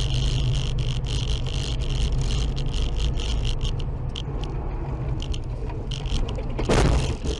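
Vehicle running noise picked up by a dash camera: a steady low drone with a rapid, irregular rattling that thins out and stops a little past the middle. Near the end comes one short, loud burst of noise.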